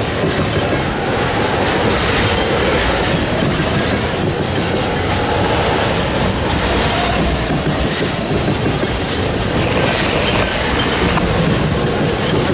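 Freight train rolling past, steady loud wheel-on-rail noise with clickety-clack from the cars crossing rail joints.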